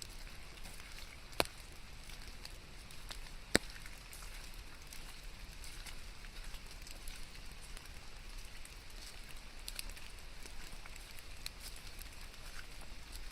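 Steady rain with many small drops ticking close by, and two sharper, louder taps in the first four seconds.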